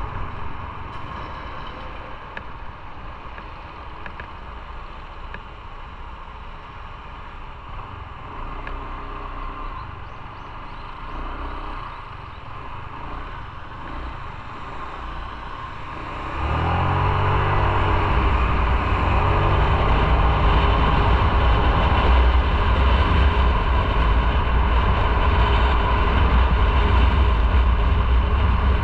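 Motorcycle engine running quietly at low revs, then a little over halfway through it opens up and accelerates, the engine note rising, and carries on running loudly at speed with road noise.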